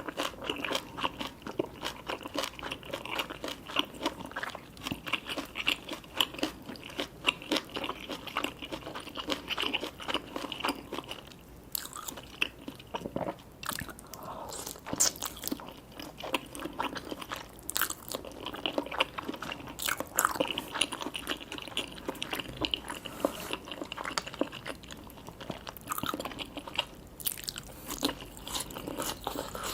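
Close-miked eating sounds: a steady stream of crunchy bites and chewing, with many sharp crunches a second, briefly thinning out about halfway through.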